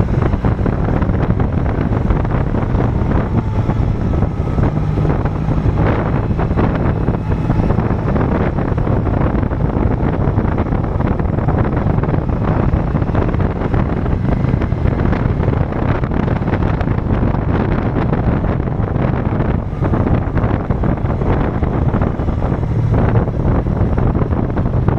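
BMW R1200CL motorcycle's boxer-twin engine running steadily while riding, with heavy wind noise buffeting the microphone.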